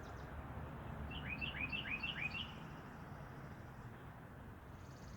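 A small bird chirping a quick run of about five short rising notes, over a steady background hiss.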